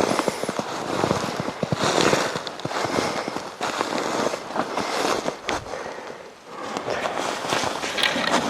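Footsteps crunching through snow, a crackling crunch about once a second, dipping briefly about two-thirds of the way through.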